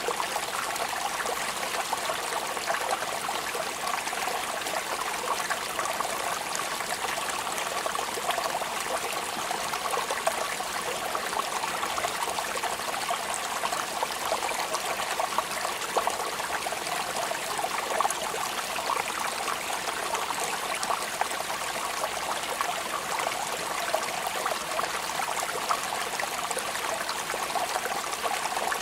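Steady rain falling: a dense, even patter of many small drops that does not let up.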